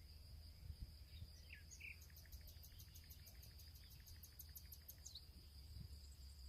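Faint field ambience: a steady high insect-like drone, a few short bird chirps about a second and a half in, and a rapid series of high ticks, about five a second, through the middle, over a low background rumble.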